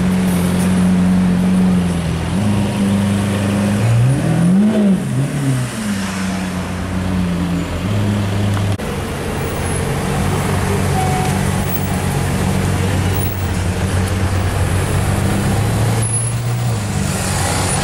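Lamborghini Aventador's V12 idling steadily, with two quick throttle blips, each rising and falling in pitch, about four to five seconds in.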